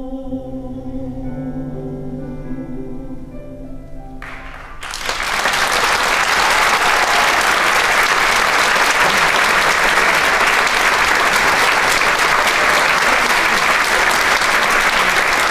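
The song's final chord is held on sustained notes and stops about four and a half seconds in. An audience then breaks into loud, steady applause.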